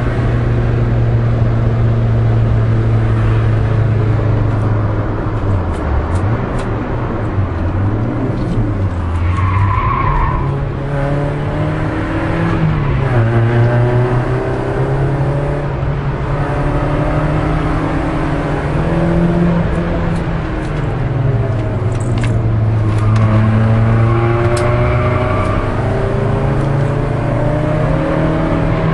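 Peugeot 306 S16's 2.0-litre 16-valve four-cylinder engine at racing revs, heard from inside the cabin. Its pitch drops and climbs several times as it brakes, shifts and accelerates through corners. Tyres squeal about ten seconds in and again in the last few seconds.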